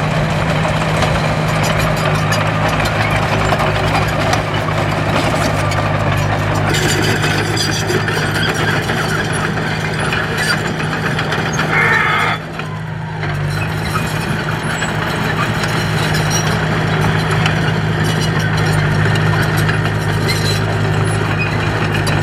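Heavy diesel construction machine engine running steadily under load, with a brief drop in level about twelve seconds in.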